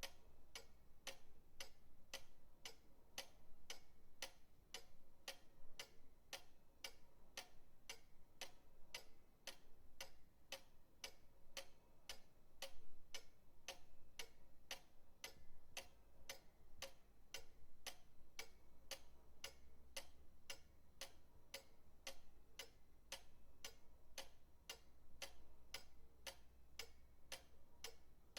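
Pendulum clock ticking steadily, about two even ticks a second, with a faint low hum underneath.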